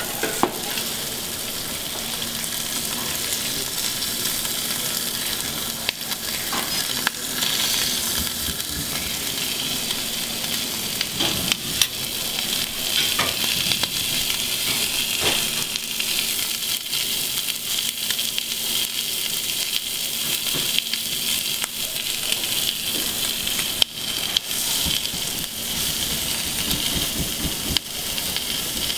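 Seafood sizzling steadily in fat on a hot stainless-steel flat-top griddle. A few sharp clicks come from a metal spoon against the griddle.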